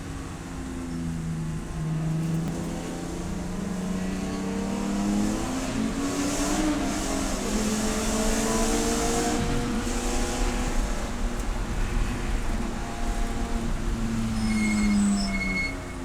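Race car engine running hard, its pitch climbing and dropping repeatedly through gear changes, with a rush of hiss midway. A few short high beeps sound near the end.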